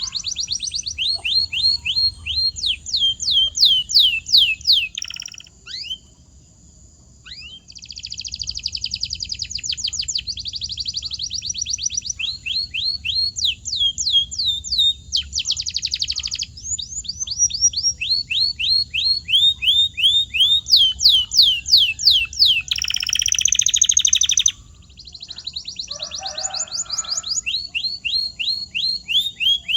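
Domestic canary singing: fast trills of quickly repeated falling whistled notes alternating with dense buzzy rolls, broken by two short pauses, with a brief lower, harsher phrase near the end.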